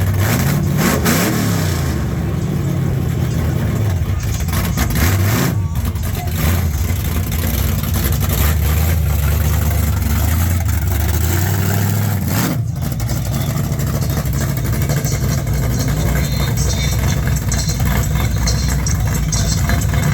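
Car engine idling, revved up and back down about a second in and again around five seconds in.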